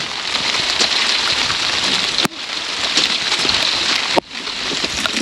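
Steady rain falling, a dense hiss of drops with light ticks. It breaks off sharply twice, about two and four seconds in, and comes straight back.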